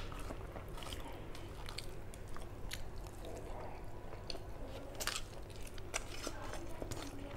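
Close-miked chewing of a mouthful of rice and curry eaten by hand, with wet mouth clicks and smacks coming irregularly. Fingers also squish and mix rice against a steel plate.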